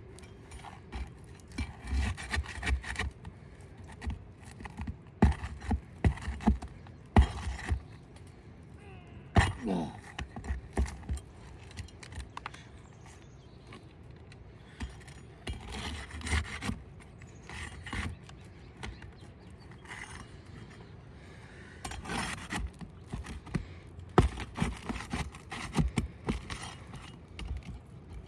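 A tool prying under roof shingle tabs to break their seal, with irregular scraping and clicking and a few sharp knocks, in bursts with short pauses between.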